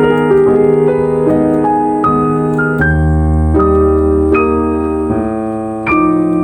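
Background piano music, slow chords and single notes played one after another, a new chord every second or so.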